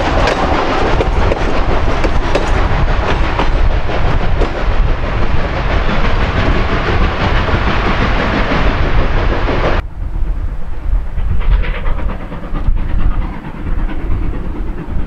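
Train running on rails: a loud, dense noise with many small clicks. About ten seconds in it cuts abruptly to a quieter, duller stretch of train sound.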